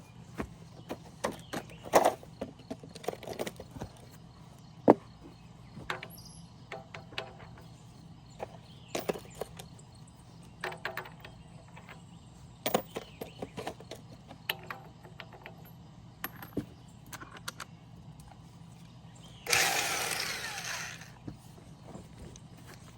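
Scattered clicks and clinks of hand tools working on engine parts, over a steady low hum. Near the end comes a louder burst of noise about a second and a half long that fades out.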